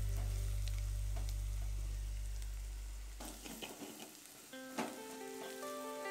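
Sliced onions sizzling in oil in a metal kadai as a metal spoon stirs them, with a few sharp clicks and scrapes of the spoon against the pan. Soft background music runs underneath, fading out partway through and starting again with new notes.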